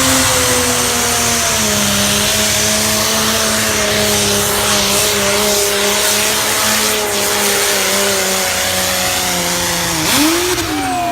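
Engine of a four-wheel-drive puller at full throttle dragging the sled, a loud, steady note that sags slowly in pitch as the load builds. About ten seconds in the engine note dips and swoops back up as the run ends.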